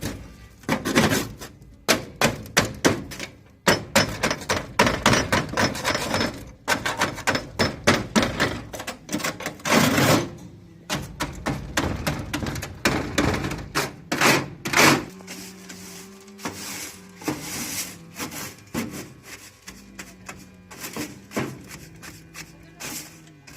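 Rapid, irregular knocking and tapping from hand work on a door under repair, then background music with held notes coming in about fifteen seconds in.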